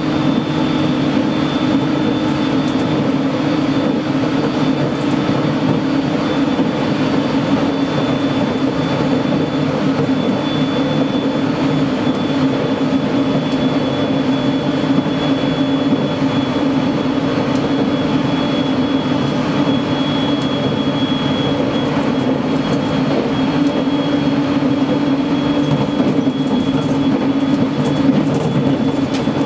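Aoimori Railway 701 series electric multiple unit running steadily along the line, heard from inside its rear cab: a constant low rumble of wheels on rail with a thin, steady high tone above it.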